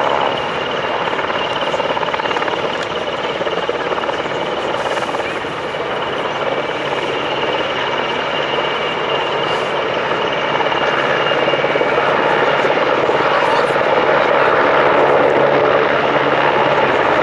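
Jet aircraft engine noise: a steady, dense rush with a faint high whine, growing louder in the last few seconds.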